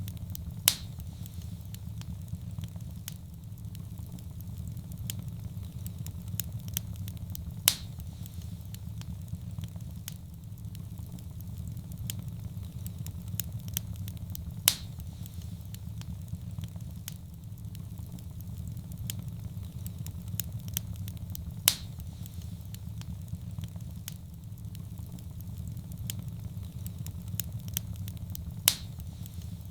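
Wood fire crackling in a fireplace: a steady low rumble of flame under many small crackles, with a sharp louder pop about every seven seconds.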